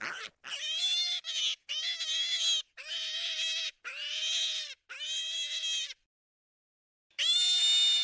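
Wild boar squealing: a quick series of high-pitched squeals, each under a second, then a pause and one more squeal near the end.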